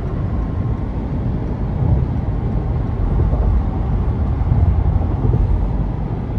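Car cabin road noise while driving at highway speed: a steady low rumble of tyres and wind.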